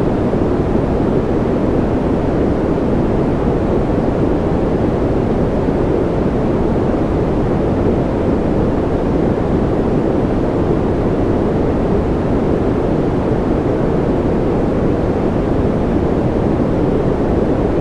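Steady white noise for soothing a baby to sleep, weighted toward the low end so it sounds deep and soft rather than hissy, even and unchanging throughout.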